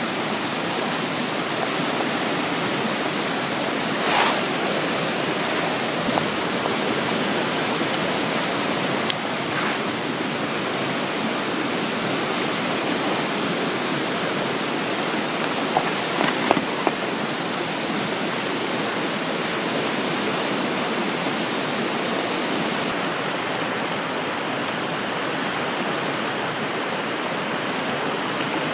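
River water rushing steadily, with a few short clicks about four seconds in and again around sixteen seconds.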